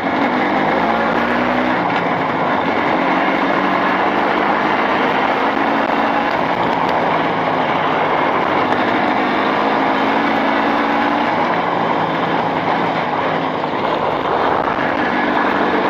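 Jawa two-stroke motorcycle engine running steadily, its pitch drifting a little up and down, fully warmed up to about 100 °C while being run in on newly fitted Chinese-made cylinders.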